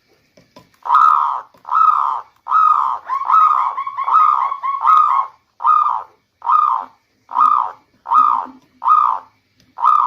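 Zebra dove (local perkutut) cooing: a string of short coos, a little faster than one a second, with a quick rolling run of notes woven in about three to five seconds in.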